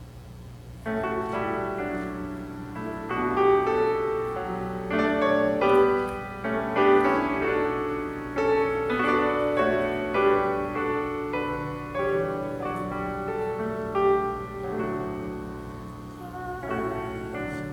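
Piano starts playing about a second in, a sustained flow of overlapping chords and melody notes.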